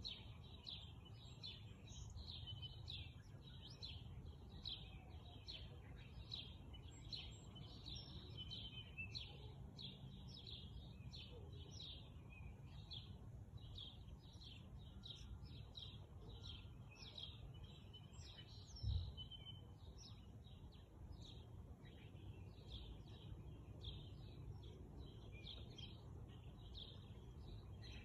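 Faint bird chirping: a rapid, steady run of short, high chirps from small birds over a low background rumble, with a single low thump about two-thirds of the way through.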